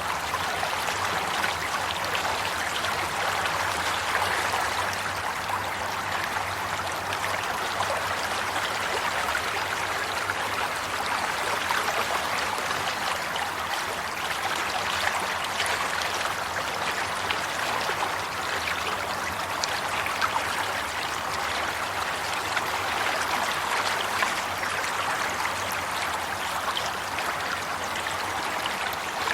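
Flowing stream water: a steady babble and trickle over stones, with many small splashes.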